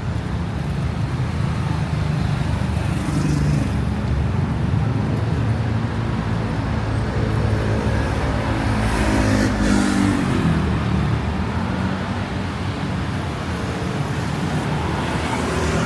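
Steady city road traffic: a continuous rumble of passing cars and buses. About halfway through, one vehicle's engine note swells and fades as it goes by.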